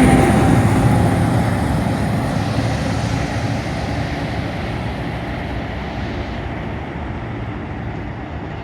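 NJ Transit commuter train running past and moving away, its rumble fading steadily.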